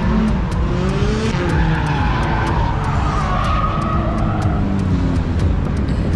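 A car engine running and revving, its pitch rising and falling, with a strong low rumble.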